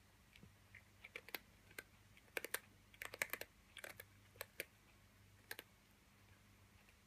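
Scattered light clicks and taps of small hard objects, some in quick clusters, loudest around two and a half to three and a half seconds in, over a faint steady hum.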